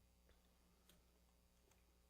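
Near silence: room tone with a steady low hum and three faint ticks.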